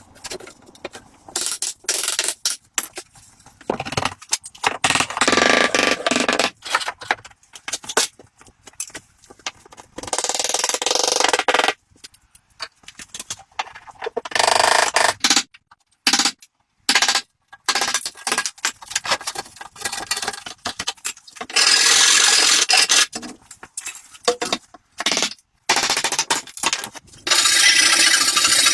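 Hand tool scraping across wood in irregular strokes: many short choppy scrapes broken by pauses, with longer steady strokes of one to two seconds, the longest near the end.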